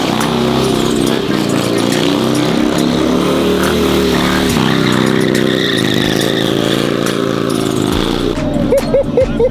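Car engines running and revving, their pitch shifting up and down, with three quick rev blips near the end.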